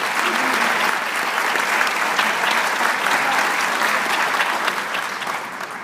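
Theatre audience applauding at the end of a song, with a few shouts from the crowd; the applause dies down near the end.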